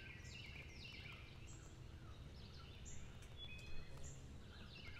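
Faint outdoor birdsong: short chirps and downward-sliding whistles repeating throughout, over a low steady background noise.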